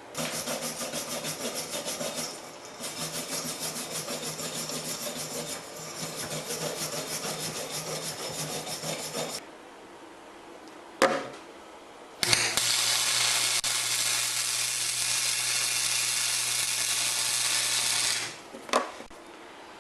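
Wire brush scrubbing welding flux off a fresh weld in quick back-and-forth strokes for about nine seconds. After a pause and a sharp click, a flux-core wire welder runs a weld pass for about six seconds, a steady hiss over a low hum that stops abruptly.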